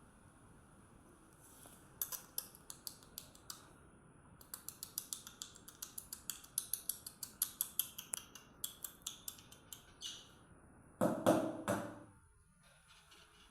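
A rapid, irregular run of sharp, light clicks and taps, several a second, followed near the end by a louder rustling scrape lasting about a second.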